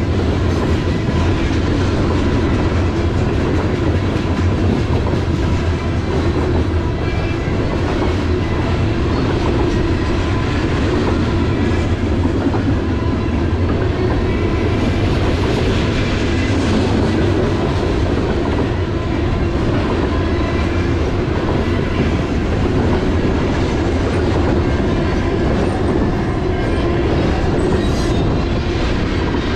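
Freight train of covered hoppers and tank cars rolling past close by: a steady rumble and clatter of steel wheels on the rails that keeps on without a break.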